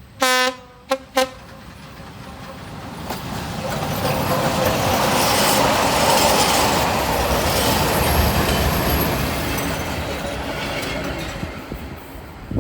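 Train horn sounding one blast and then two short toots, followed by the train passing close by: the noise of its running swells, is loudest midway and fades as it goes away.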